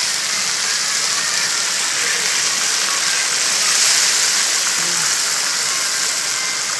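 Wet water spinach sizzling in hot oil and chili-shallot paste in a wok: a loud, steady hiss that swells slightly about four seconds in.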